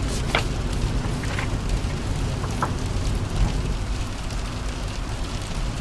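Steady rain falling on a car over the low rumble of the car driving, with a few short, sharp ticks in the first three seconds.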